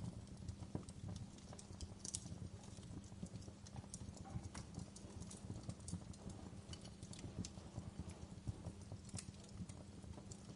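Fireplace crackling: irregular small pops and snaps over a low, steady rumble of burning.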